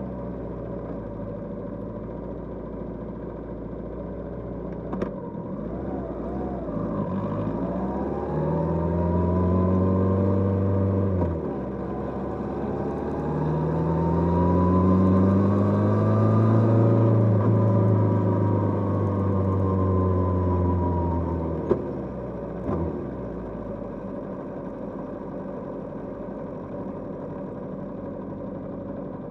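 Kawasaki GPZ550 inline-four engine on the move: running at low revs, then revving up, dropping in pitch once as it shifts up, revving up again and holding, then easing off and falling back to a low steady run for the last few seconds. A few sharp clicks are heard along the way.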